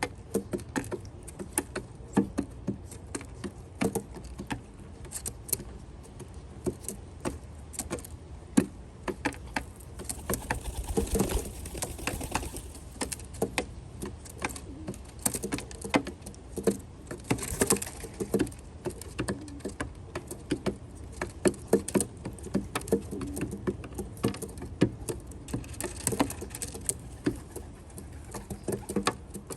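Rock pigeons pecking at nuts and seeds on a feeding platform: a rapid, irregular stream of sharp taps and clicks as beaks strike the boards and seeds rattle.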